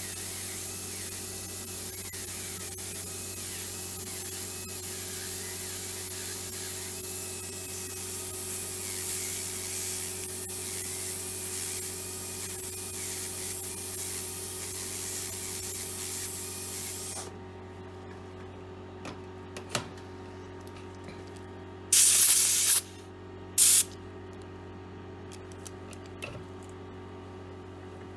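Dental handpiece spinning a finishing disc against a composite restoration, trimming it: a steady hiss with a wavering whine that cuts off suddenly about 17 seconds in. Two short loud hissing bursts follow a few seconds later, the second shorter.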